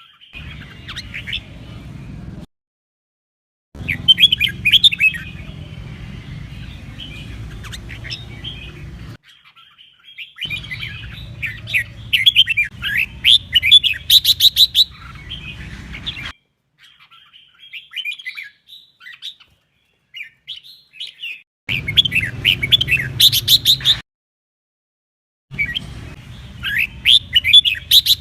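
Red-whiskered bulbul song: fast runs of chirps and whistled notes in repeated bursts of a few seconds each, cut by abrupt silent gaps.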